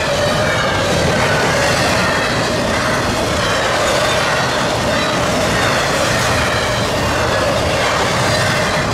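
Freight train cars rolling past at steady speed, a continuous rumble of wheels on rail.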